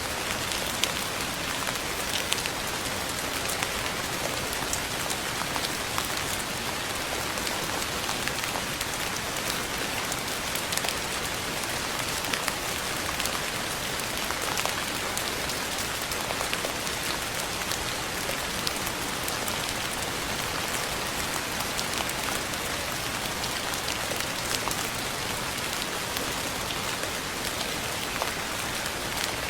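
Steady rain falling on a surface, an even hiss dotted with many separate drop ticks throughout.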